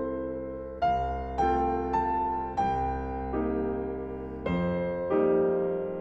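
Background music: slow piano chords, each struck and left to ring and fade.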